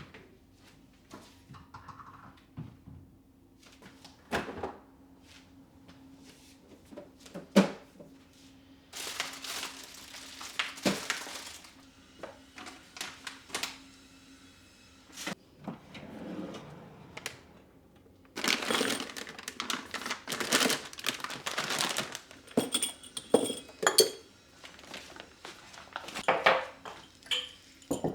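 Kitchen items being handled: scattered knocks and clinks as things are set down, with two longer spells of rustling or pouring about nine and eighteen seconds in.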